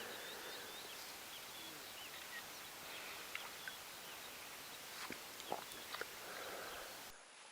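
Many small birds chirping in short calls over a steady outdoor hiss, with a few sharp clicks; the background cuts off abruptly just before the end.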